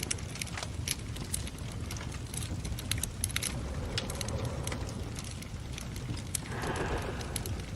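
Wood fire crackling with frequent sharp pops over a steady low purring rumble, with a breathy swell rising near the end.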